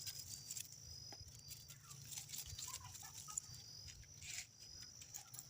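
Faint rustling and light clicks of dry sticks and bark being handled and gathered for firewood, with one louder rustle about four seconds in.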